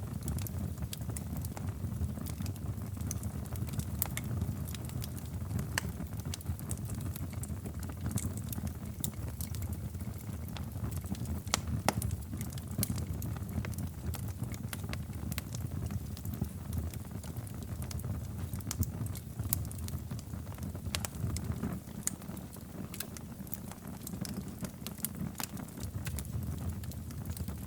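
Wood fire crackling in a fireplace: a steady low rumble of flames with frequent small, irregular pops and snaps.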